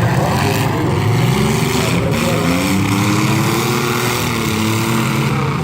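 Demolition derby car and truck engines revving, their pitch rising and falling over one another.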